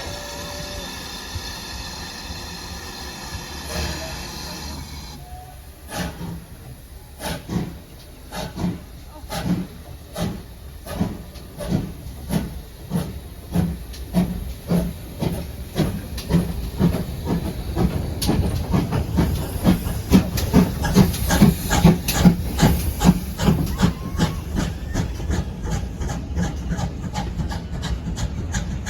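Steam locomotive departing: a steady hiss of steam for about five seconds, then exhaust beats as it starts away. The beats begin slow and heavy and quicken steadily as the train gathers speed.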